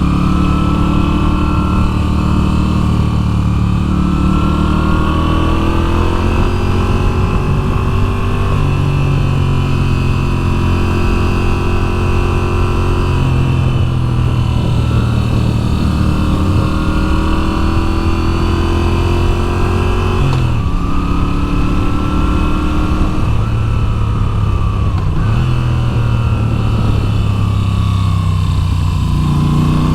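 Moto Guzzi V7's 853 cc air-cooled transverse V-twin pulling hard through a run of bends: the engine note climbs gradually, then drops back several times as the rider shifts or rolls off the throttle. Heavy wind rumble sits underneath.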